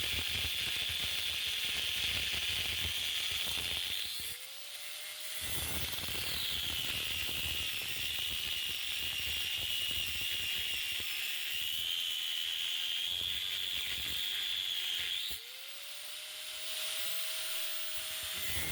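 Craftsman angle grinder with a cutoff wheel cutting through steel frame struts: a steady high-pitched whine with hiss. About four seconds in and again about fifteen seconds in the cut pauses briefly, with a lower rising tone, before the cutting whine comes back.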